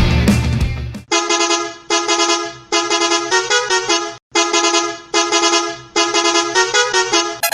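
A vehicle horn sounding a six-note phrase twice, with a brief break between: two long notes, then four shorter notes that change pitch. It follows the tail of loud rock music.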